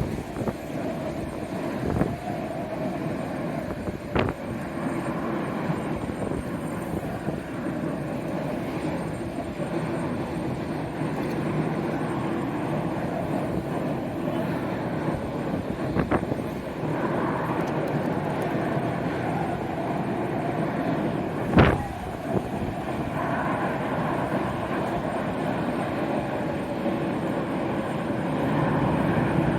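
Airliner jet engines running steadily, with a few short sharp knocks over them, the loudest about three quarters of the way in.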